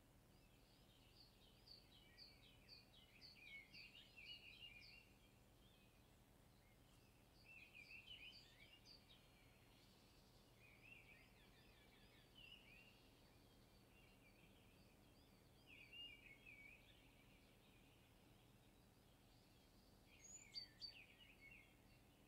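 Faint birdsong: a quick run of chirping notes, then short song phrases every few seconds with pauses between them.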